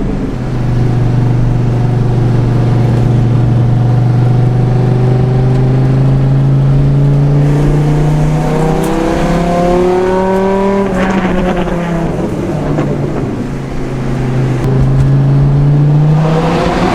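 Dodge Viper's V10 through a custom muffler-delete exhaust, running steadily and then accelerating: its pitch climbs for a few seconds, breaks off about eleven seconds in, and builds again near the end.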